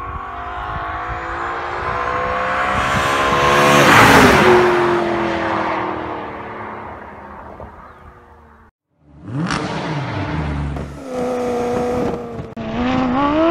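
A car engine passing at speed: its note rises and grows louder as it approaches, peaks about four seconds in, then drops in pitch and fades as it goes by. After a brief silence, another car engine runs and revs, its pitch climbing sharply near the end.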